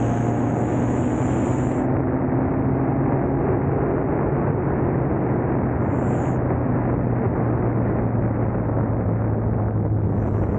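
2000 Honda Civic's D-series four-cylinder engine running at a steady speed under way, with road noise.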